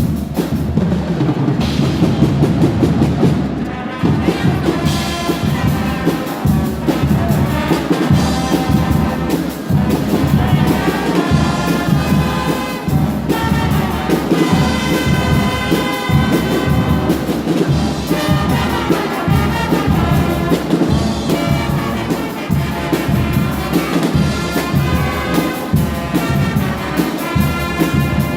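Guggenmusik carnival band playing loudly: trumpets and trombones over a steady beat of bass drum and snare.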